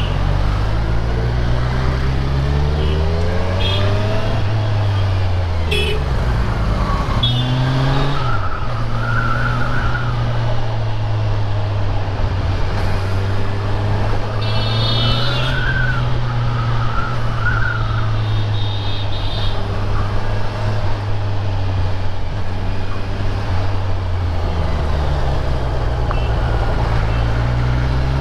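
Motorcycle engine under way, its pitch climbing through gears several times in the first few seconds, then running at a fairly steady pitch while cruising.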